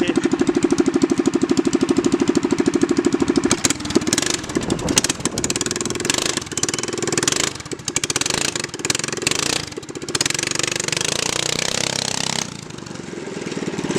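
Harbor Freight Predator 212cc single-cylinder engine on a go-kart, idling with a steady, rapid, even beat. About four seconds in the sound turns rough and uneven, rising and falling, and it drops away about a second and a half before the end.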